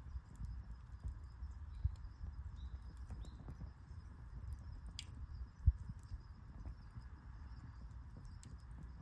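Wood campfire burning: scattered crackles and pops over a steady low rumble, the loudest a single sharp pop a little past halfway.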